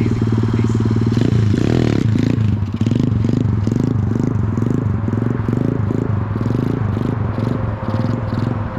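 Motorcycle engine idling steadily. A little over a second in, its sound changes into an uneven pulsing, about three beats a second, that runs on.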